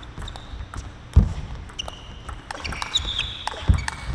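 Table tennis play on court: light clicks of the ball, short high shoe squeaks on the floor, and two heavy thumps about two and a half seconds apart.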